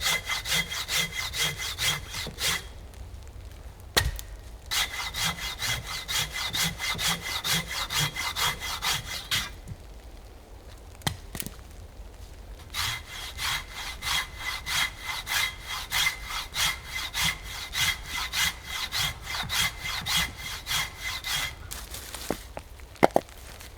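Hand saw cutting wood in quick, even back-and-forth strokes, about three a second, with the blade ringing. There are three bouts, a pause of a couple of seconds between each, and a single knock early in the first pause.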